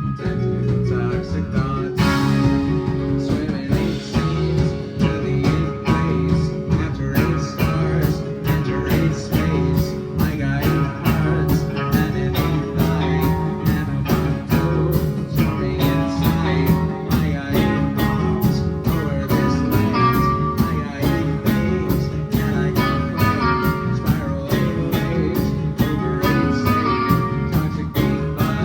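Live band playing an instrumental passage led by guitar, with a steady beat that gets crisper about seven seconds in.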